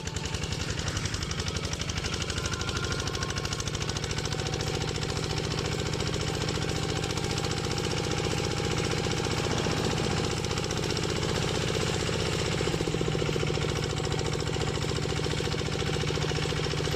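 Kubota RT walking tractor's single-cylinder diesel engine running steadily with a fast, even chugging beat as the tractor travels along the road. Its note shifts slightly about two-thirds of the way through.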